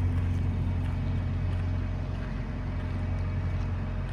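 Semi truck's diesel engine idling with a steady, unchanging low hum.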